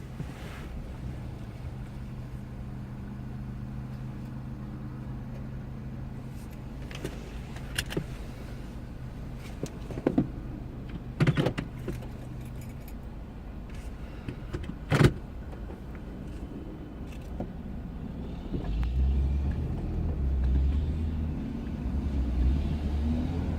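A vehicle engine idling with a steady low hum that stops about 13 seconds in. Several sharp knocks and clicks come between about 7 and 15 seconds in. A louder low rumbling noise takes over from about 19 seconds in.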